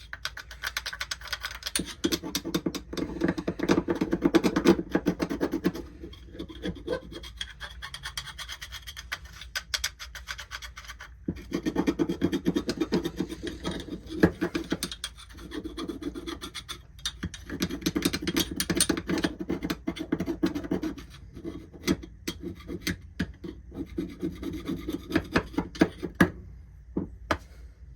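Rapid back-and-forth scraping and scrubbing on a carburetor part to clean off gunk, in several runs of a few seconds broken by short pauses.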